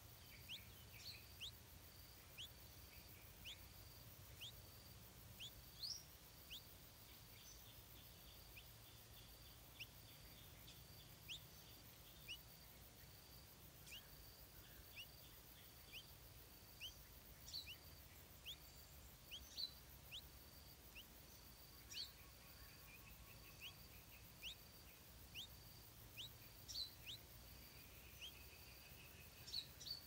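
Faint bird chirps: short, quick upward notes repeated roughly once a second, over a faint, steady, high pulsing trill.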